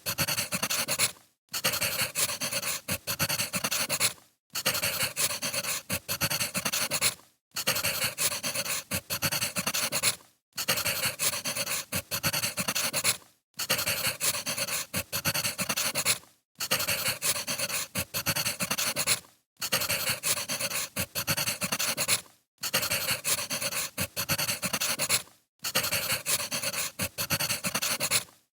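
Crackling wood fire, a dense run of pops and crackles that breaks off into a brief silence about every three seconds, as if a short recording is looped.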